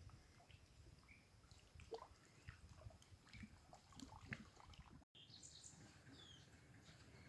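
Faint scattered clicks and small knocks. After a brief break about five seconds in come faint bird chirps.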